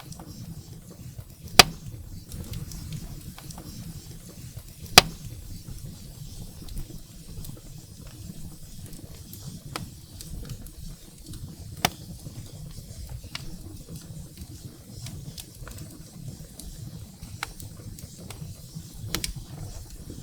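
Wood fire burning in a fireplace: a steady low rumble of flames with many small crackles, and sharp pops of burning firewood, the two loudest about a second and a half in and about five seconds in, with smaller ones near twelve and nineteen seconds in.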